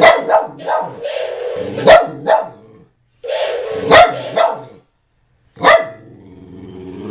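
A dog barking in a run of loud, sharp barks, about one every two seconds, with longer drawn-out sounds between them.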